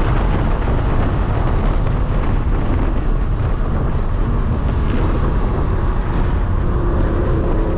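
Lamborghini Huracán at speed on track, heard as heavy wind buffeting and road rumble with its V10 engine under the noise; the engine note rises near the end as the car accelerates.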